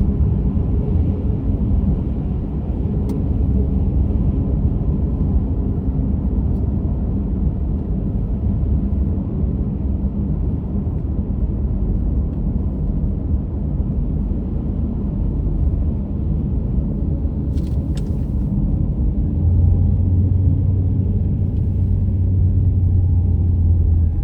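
Car driving along a road: steady low rumble of the tyres and engine, which gets deeper and louder about twenty seconds in.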